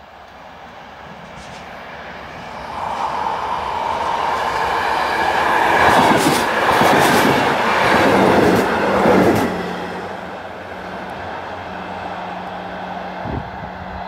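A passenger train approaching and passing close by: its noise builds steadily, peaks with wheels clattering over the rail joints as the coaches go past, then drops off suddenly as the last coach clears. A steady low hum stays as it moves away, with one short knock near the end.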